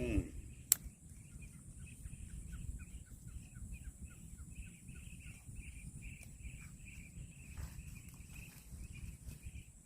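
A rapid series of short, high bird-like chirps, about two to three a second, running together into a trill near the end, over a low rumble. A single sharp click comes just under a second in.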